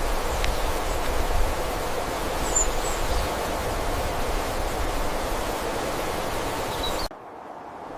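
Steady outdoor background noise, an even rushing hiss with a faint high chirp about two and a half seconds in. It cuts off abruptly about seven seconds in.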